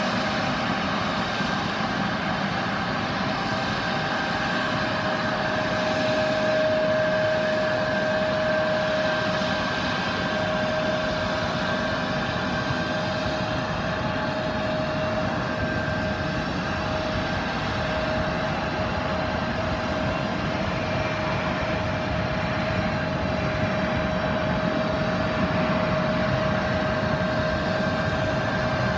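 Embraer ERJ170's General Electric CF34-8E turbofan engines running steadily at idle after start-up. The sound is an even rush with a steady whine.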